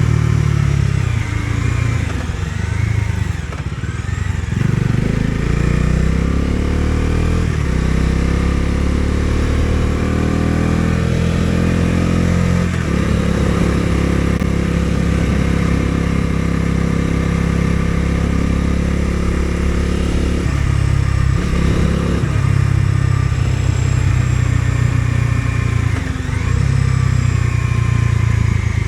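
Bajaj Dominar 250's single-cylinder engine under way, rising in pitch through two gear changes over the first dozen seconds. It then runs at a steady cruise, with brief lifts of the throttle about two-thirds of the way in and again near the end.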